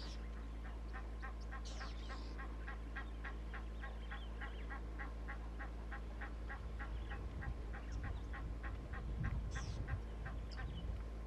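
A bird calling a long, even run of short notes, about four a second, with a few higher chirps from other birds. A low rumble rises about seven seconds in and fades near the end.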